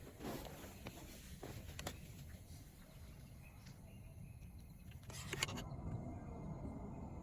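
Scattered light clicks and knocks over a low steady rumble, with a short cluster of louder knocks about five seconds in.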